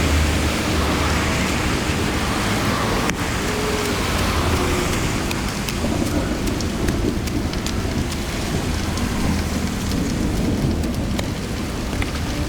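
Water making a steady rushing noise, with a low rumble and scattered faint ticks and patters.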